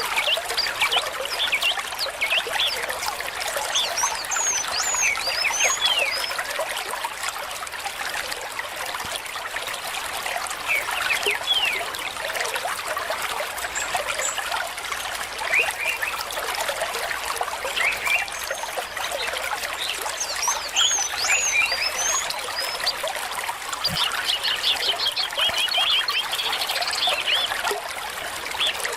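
A small stream trickling and burbling steadily, with short high bubbling tones scattered throughout.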